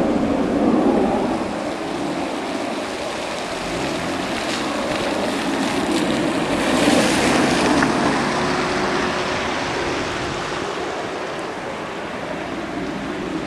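Cars driving through floodwater on a flooded street, tyres churning and splashing water in a steady wash that swells about seven seconds in as a vehicle passes.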